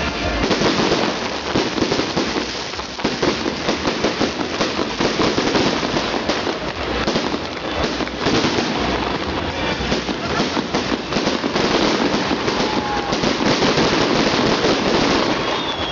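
Fireworks salute going off: a dense, continuous crackling of many small bursts overlapping one another, with no pause. A few faint whistling glides come through near the end.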